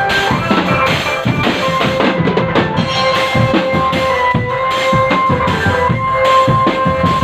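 Drum band playing: fast, dense drumming on snare and bass drums under a melody of long held notes.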